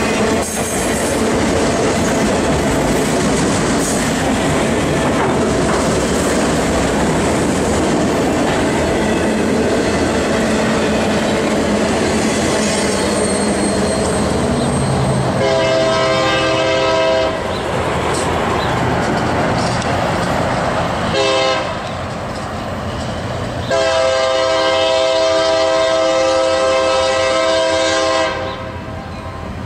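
Autorack freight cars rolling past at speed, wheels clacking over the rail joints, through the first half. Then a Union Pacific SD70M locomotive's Nathan K3LA air horn sounds a blast of about two seconds, a short toot, and a long blast.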